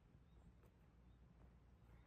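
Near silence: faint outdoor background with a faint tick or two.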